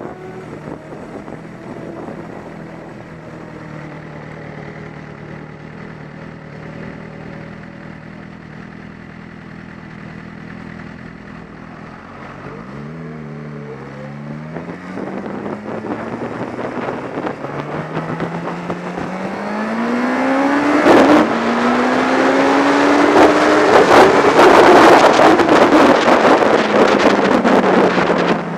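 Inline-four sport motorcycle engine heard from the moving bike. It holds a steady note, then accelerates hard through the gears, its pitch rising in sweeps with a short drop at each shift, and falls away as the rider rolls off near the end. Wind rushing over the microphone grows loud as speed builds.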